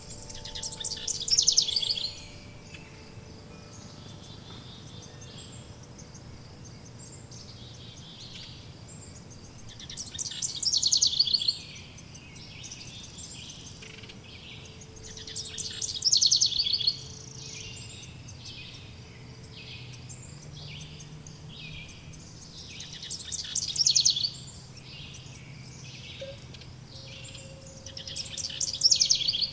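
Forest songbirds singing: a loud trilled song phrase comes back about every six seconds, five times in all, over a steady scatter of short, very high chirps.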